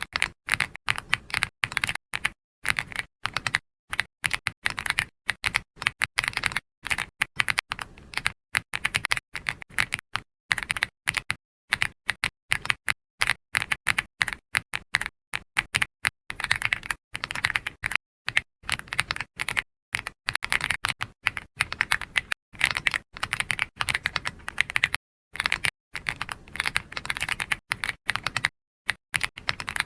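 Computer keyboard typing: steady runs of soft keystroke clicks, with brief pauses between bursts of typing.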